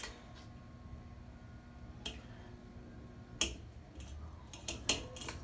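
A 52-inch Hampton Bay Hugger ceiling fan running on low speed, a steady hum with a faint tone. About five sharp clicks come at irregular times, most of them in the second half.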